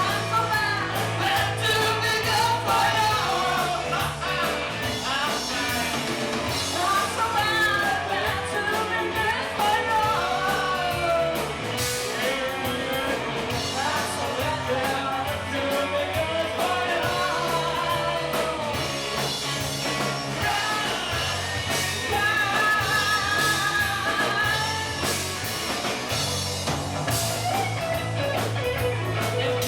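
Rock band playing a song live, with a woman singing the lead vocal over guitar, bass and drums.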